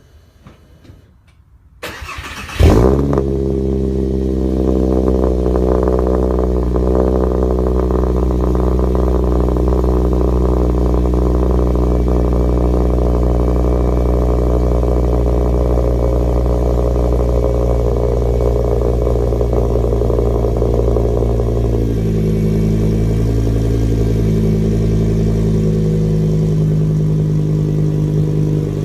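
2007 Volkswagen Rabbit's five-cylinder engine, through a newly fitted exhaust, cranked by the starter and catching with a sharp rev about three seconds in, then idling steadily. A little past twenty seconds in, the idle note shifts and settles.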